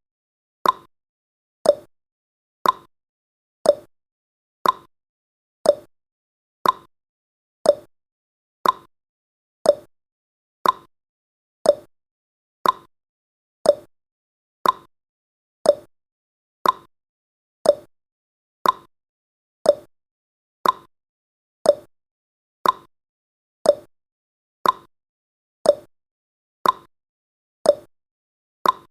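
Clock-style ticking sound effect of a countdown timer: one short, sharp tick every second, evenly spaced, with silence between ticks.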